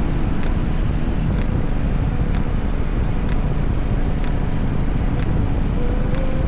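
A car on the move: a steady, loud rumble of road and engine noise, with a sharp tick repeating about twice a second.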